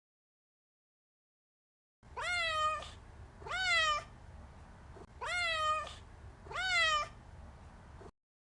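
Domestic cat meowing four times in two pairs, each meow rising in pitch and then holding, over a low background hiss. The sound starts after about two seconds of total silence and cuts off abruptly just before the end.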